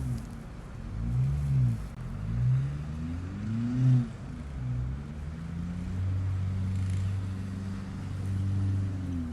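The turbocharged 1.8-litre four-cylinder engine of a 2004 Audi A4 1.8T being revved in several quick blips, each rising and falling, then settling into a steady run for the last few seconds.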